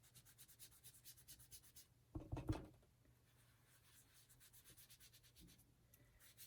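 Faint, rapid scrubbing of a foam ink-blending pad worked in quick strokes over a paper tag to blend in Distress ink. There is a soft low bump about two seconds in.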